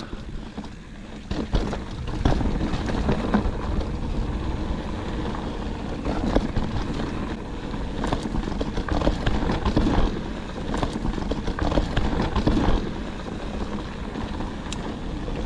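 Mountain bike rolling fast over a rough dirt trail: tyres crunching and the bike rattling over bumps, with wind buffeting the microphone. It gets louder about two seconds in.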